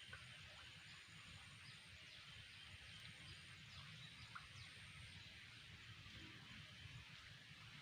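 Faint outdoor ambience: a steady low hiss and rumble, with a few faint, brief high chirps scattered through it.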